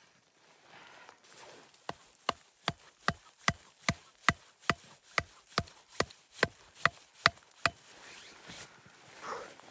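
A tool striking wood in a quick, even series of about fifteen sharp blows, roughly two and a half a second, which start about two seconds in and stop near eight seconds. A short rustle follows near the end.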